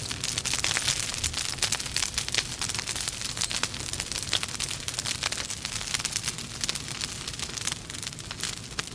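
Wood fire burning in a fireplace: steady hiss with dense, irregular crackling and popping of the logs.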